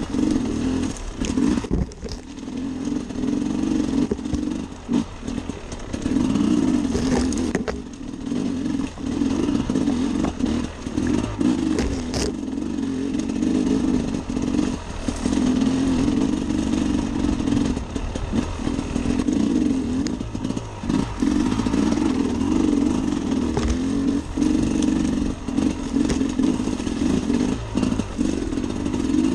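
Sherco SE 300 Factory's 300 cc two-stroke single-cylinder engine under way on a trail ride, its note dropping and picking up again every second or two as the throttle is closed and opened, with short clatters in between.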